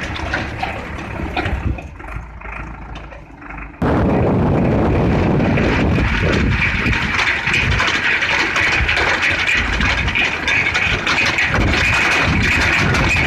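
Sonalika tractor engine running a tractor-mounted post hole digger, a dense steady mechanical noise. It is quieter and uneven for the first few seconds, then jumps back to full loudness about four seconds in and stays steady.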